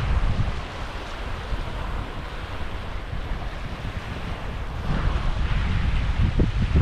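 Waves washing on the beach, with wind buffeting the microphone in a low rumble that picks up again about five seconds in.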